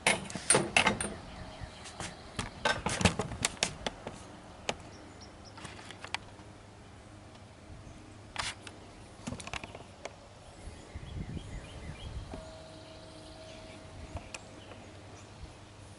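Handling noise of a camera being moved and reset: a quick run of clicks, knocks and rattles in the first few seconds, a few scattered knocks later. A faint steady tone comes in near the end.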